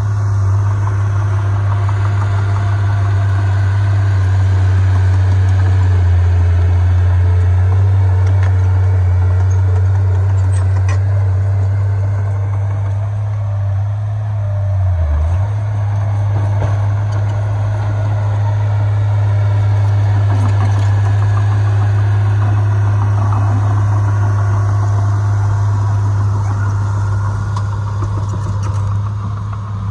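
Heavy diesel engine of earthmoving machinery running steadily with a deep drone, its pitch dipping briefly about halfway through.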